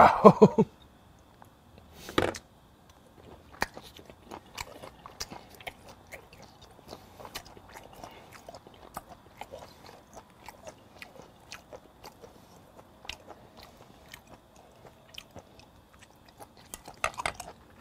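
Close-up mouth sounds of someone chewing raw flounder sashimi: a steady run of small wet clicks and smacks. There are louder bursts about two seconds in and near the end.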